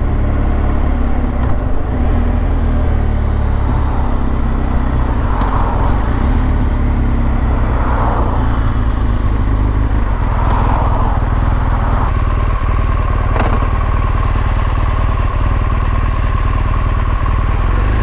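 BMW R1200 GS flat-twin boxer engine running steadily while riding, heard from the rider's position. A steady whine comes in about two-thirds of the way through.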